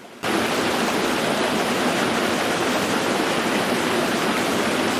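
Rushing floodwater: a dense, steady rush of water noise that cuts in abruptly just after the start.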